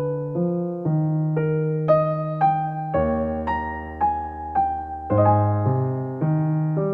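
Soft background piano music, a slow melody of single notes about two a second over low bass notes.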